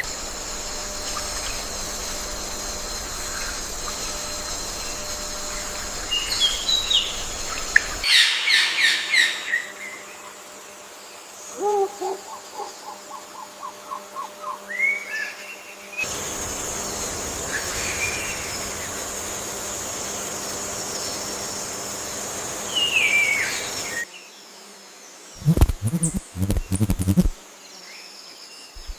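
Wild birds chirping and calling over a steady high insect drone, with the background changing abruptly every eight seconds or so. One stretch holds a quick run of about eight repeated notes, and several low thumps come near the end.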